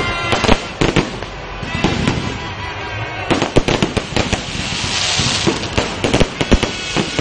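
Aerial fireworks bursting close overhead: a rapid string of sharp bangs and crackles, thickest about halfway through and again near the end, with a hissing spell in between.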